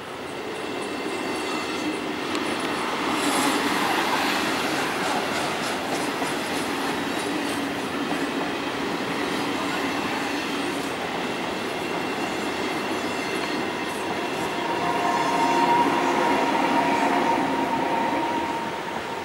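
Regional passenger train of double-deck Casaralta coaches, pushed by an E 464 electric locomotive, passing over a level crossing: wheels rolling and clattering on the rails, swelling about three seconds in. A higher steady whine joins near the end as the locomotive goes by.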